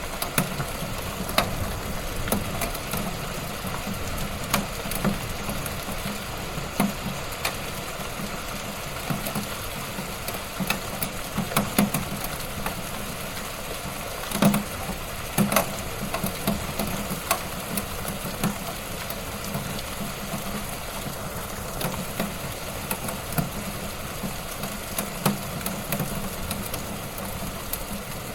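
Wood fire burning in a fireplace: a steady hiss of flames with frequent irregular crackles and sharp pops of burning logs, a few of them louder than the rest.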